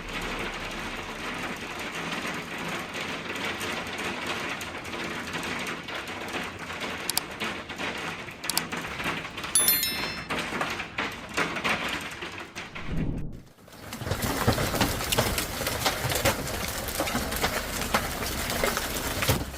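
Heavy hail pelting homes and cars: a dense, steady patter peppered with sharp cracks of stones striking. It breaks off briefly about two-thirds through and starts again in a second hail recording.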